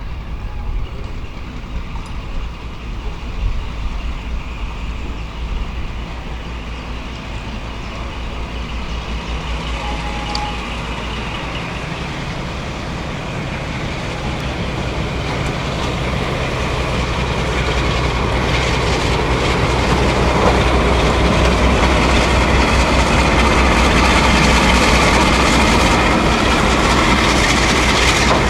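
A train running along the line, growing steadily louder as it approaches and loudest over the last several seconds, with wheels clicking over the rails.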